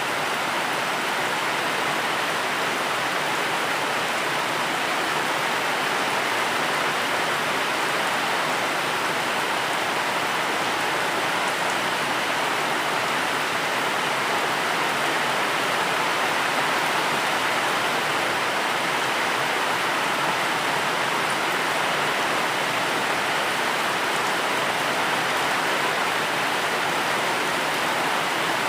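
Steady rain falling, an even, unbroken hiss of drops with no distinct patter or thunder.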